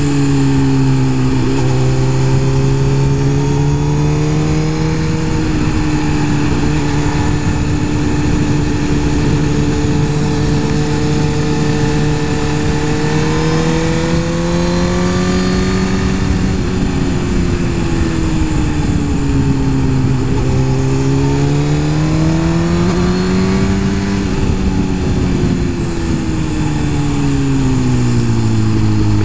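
Suzuki GSX-R 1000's inline-four engine running on the move at a fairly steady pitch, swelling and easing with the throttle, over a steady rush of wind. Near the end the pitch sinks as the throttle is rolled off.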